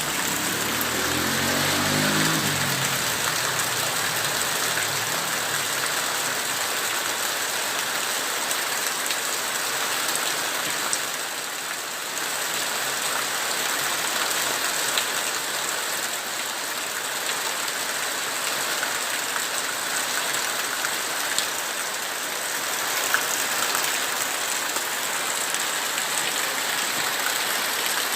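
Heavy rain pouring down as a dense, steady hiss. In the first few seconds an engine rises in pitch and fades under the rain.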